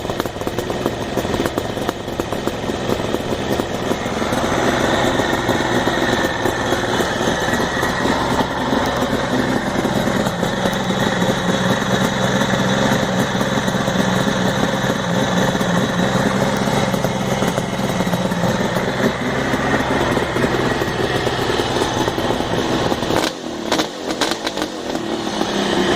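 Kawasaki H2 two-stroke triple motorcycle engine running steadily just after a cold kick-start, a little louder from about four seconds in, with a brief drop near the end before it picks back up.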